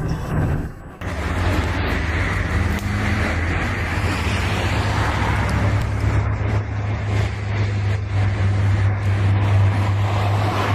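Steady road-vehicle noise: a continuous low hum under an even hiss, after a short dip in level about a second in.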